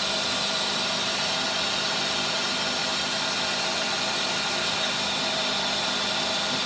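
Electric motor of a workshop machine tool running steadily, a constant hum with a high whine over a hiss.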